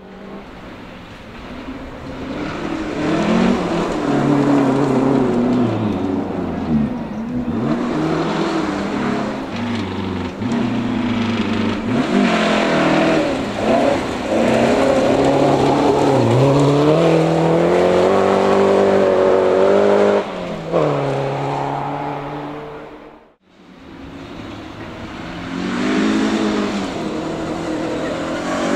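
Rally car engines on a forest special stage, revving hard and changing gear as a car approaches and passes, its pitch climbing and dropping repeatedly with sharp lifts off the throttle. About 23 seconds in the sound cuts out, and another rally car is heard approaching, its revs rising.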